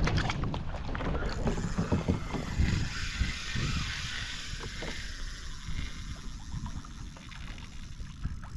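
Water lapping and knocking against a fishing kayak's hull, with wind buffeting the microphone.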